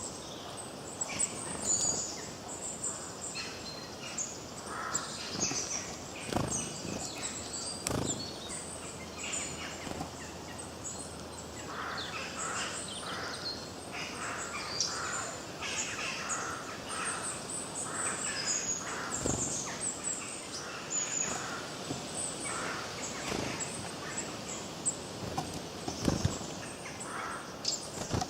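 Several forest birds singing and chirping at once, many short overlapping calls and trills over a steady background hiss. A few short knocks sound now and then.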